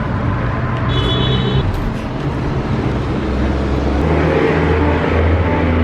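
Street traffic: a motor vehicle's engine runs close by, growing louder from about four seconds in as it passes. A brief high-pitched beep sounds about a second in.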